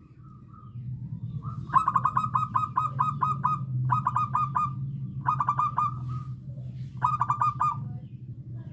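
Zebra dove (perkutut) singing its rapid staccato cooing song: four quick runs of short notes, the first and longest starting about a second and a half in, the others shorter with brief gaps between.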